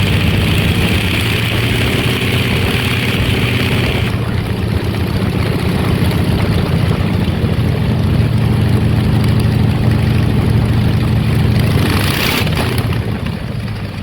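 An engine running steadily, with a hiss that stops abruptly about four seconds in and a brief burst of hiss near the end.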